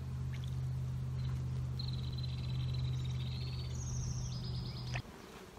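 Birds singing in the open air: several rapid, high trilled phrases of quick repeated notes, over a steady low hum that cuts off abruptly near the end.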